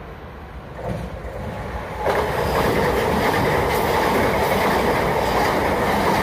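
Great Western Railway passenger train running through the platform at speed, with a steady rush of wheel and rail noise and some clatter; the sound grows suddenly loud about two seconds in as the train reaches the microphone.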